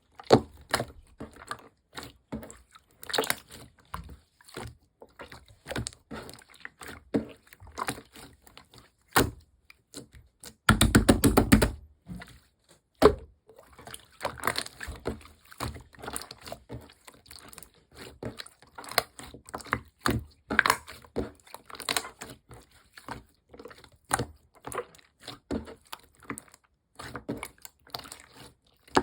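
Slime being squeezed, stretched and poked by hand, giving irregular sticky clicks and squishes. About eleven seconds in comes a second-long run of rapid crackling clicks.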